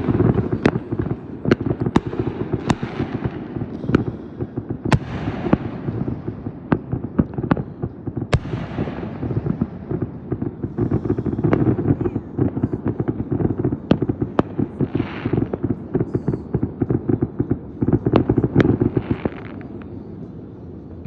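Fireworks going off in rapid succession: a dense run of sharp bangs and crackles with hardly a pause, and a couple of brief hissing patches in the second half.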